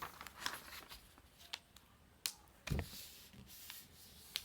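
A sheet of paper being folded lengthways and creased by hand: faint rustling with a few short crackles of the paper and a soft knock about halfway through.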